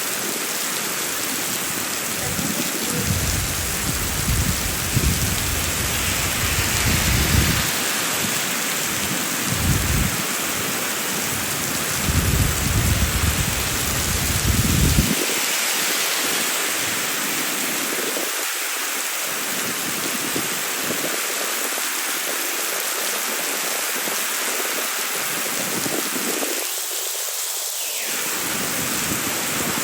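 Heavy rain pouring steadily on city pavement, a constant hiss, with irregular low rumbles during the first half.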